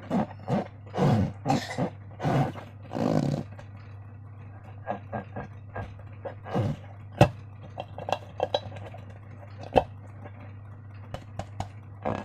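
Slime being squeezed and worked by hand: wet squelching bursts for the first few seconds, then scattered sharp clicks and small pops, over a steady low hum.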